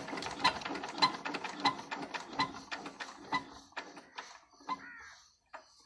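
25 hp Petter diesel engine running with slow, regular beats that space out and fade, dying away about five seconds in as the engine runs down to a stop.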